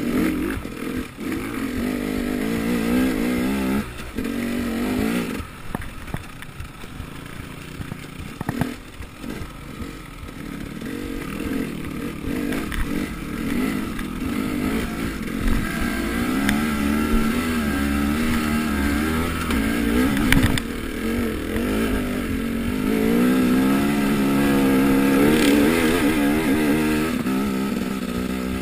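Enduro dirt-bike engine running and revving up and down over and over as the bike is ridden along a rough woodland trail, with a sharp knock about two-thirds of the way through.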